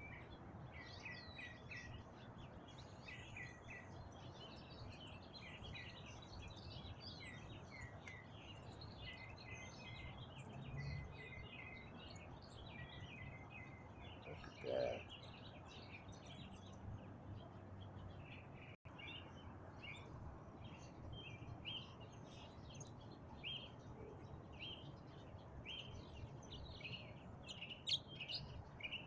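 Faint songbird song: a northern mockingbird singing a long, unbroken string of short, varied chirping notes over a steady low background hiss.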